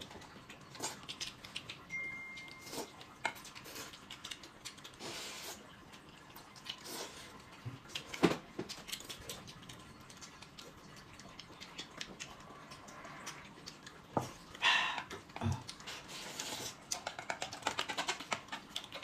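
Close-up eating sounds: wet chewing and slurping of noodles, with chopsticks clicking against bowls and a metal basin. There is a sharper clink about eight seconds in and a short slurp near the end.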